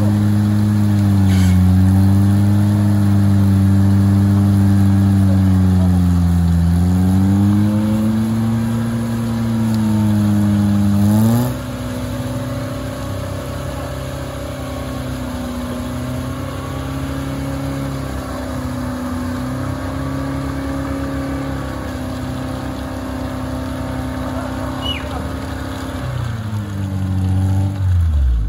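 Off-road car engine running hard under load, its pitch swelling and dipping for about eleven seconds, then dropping suddenly to a steadier, quieter note, and falling away near the end. The vehicle is straining to get out while being pulled.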